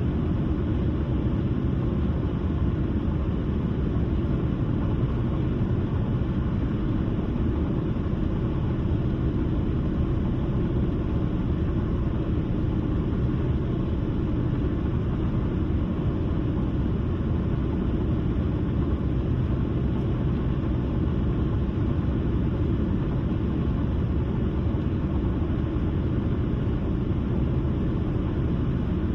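A car driving steadily, a low even rumble of tyre and road noise with the engine running underneath, unchanging throughout.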